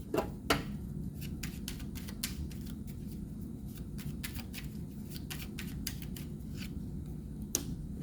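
Tarot cards being handled and shuffled: a run of quick, crisp clicks, with a couple of louder taps about half a second in and again near the end, over a steady low hum.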